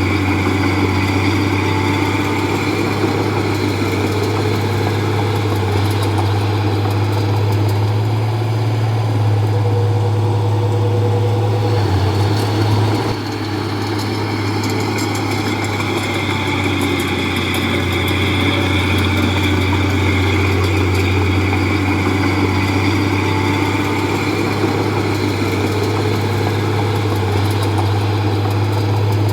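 Komatsu D31P bulldozer's diesel engine running steadily with a deep hum, easing off briefly about 13 seconds in.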